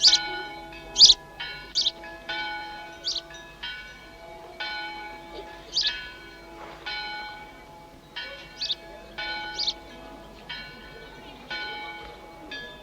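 Church bells ringing in an irregular peal: stroke after stroke, each with a bright, sharp attack and a lingering ring of overtones that overlaps the next.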